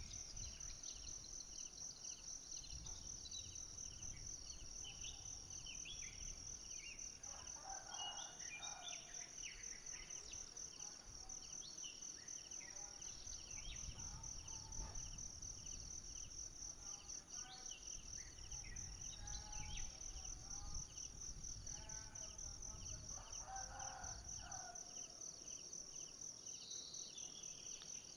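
Forest insect chorus: a steady, high, fast-pulsing cricket-like trill, with a second insect pulsing about twice a second. Short bird chirps come and go, with clusters of lower calls about eight seconds in and again near the end.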